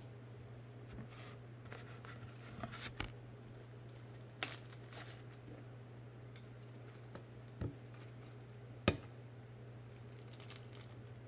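Scattered light clicks and taps of cookie-icing work by hand, with one sharper click about three quarters of the way through, over a steady low hum.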